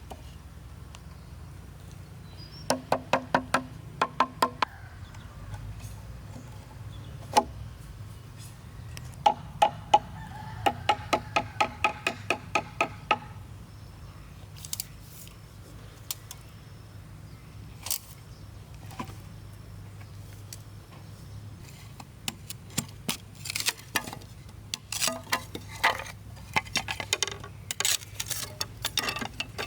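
Two quick runs of ringing knocks, several a second, then scattered sharp clicks and taps near the end.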